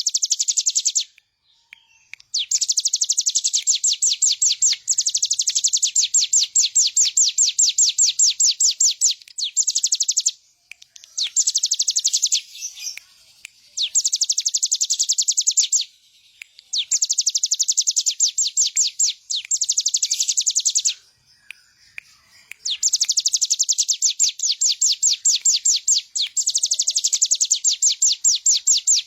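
Ciblek gunung (a prinia) singing: long, fast trills of rapidly repeated high notes, broken by short pauses every few seconds.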